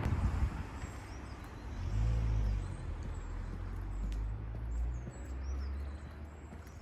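Street ambience: a car passing and fading away in the first second, a low traffic rumble that swells and eases, and small birds chirping.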